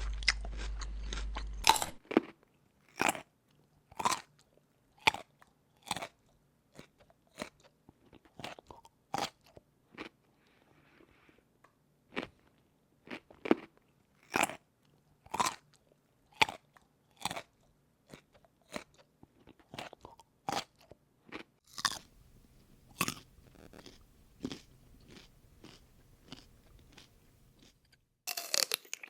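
Crunchy food being bitten and chewed close to the microphone: a dense run of crunching for the first two seconds, then single crisp crunches about once a second, thickening again near the end.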